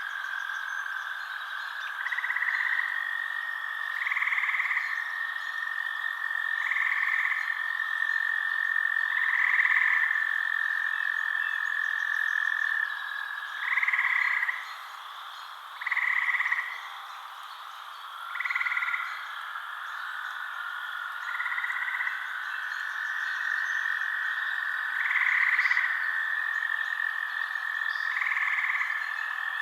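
Frogs calling at night: a steady high trill with a short call repeating every two to three seconds over it. The trill breaks off about halfway through and comes back a few seconds later.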